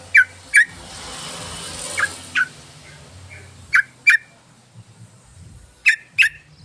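Yellow-vented bulbul calling in short, sharp notes that come in pairs, each note dropping quickly in pitch. Four pairs come about two seconds apart, with a faint hiss between the first two.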